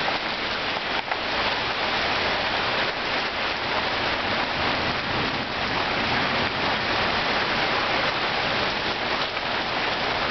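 Heavy thunderstorm rain pouring down in a steady hiss.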